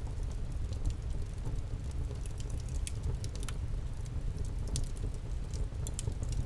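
Wood campfire burning with irregular sharp crackles and pops, several a second, over a steady low rumble of the flames.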